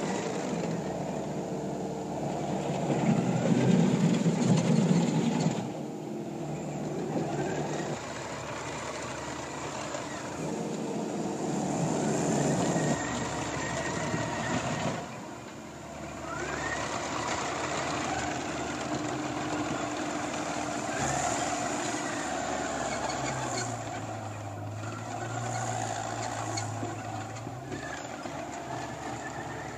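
Takeuchi TL150 compact track loader running and working, its engine and machinery getting louder and softer as it is put through its paces, with a few short rising whines.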